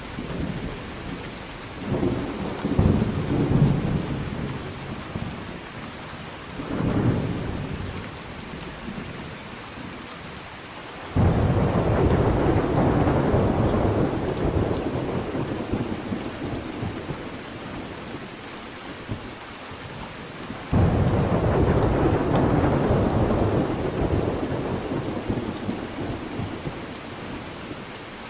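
Thunderstorm: steady rain with rolling thunder. Low rumbles come about two and seven seconds in, then two sudden loud cracks about eleven and twenty-one seconds in, each rumbling away over several seconds.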